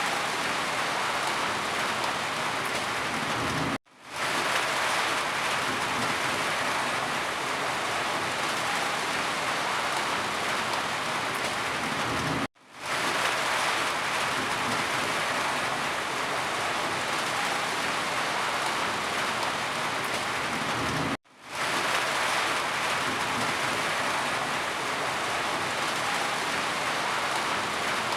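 Steady rain falling. Three times, about every nine seconds, it cuts off to silence for an instant and fades back in, like the seams of a repeated recording.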